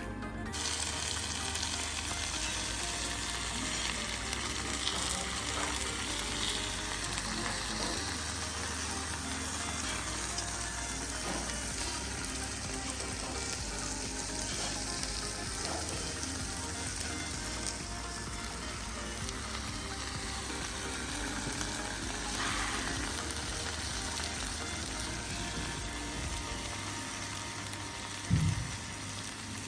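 Steady rushing roar of a waterfall, an even noise that holds throughout, with a brief low thump near the end.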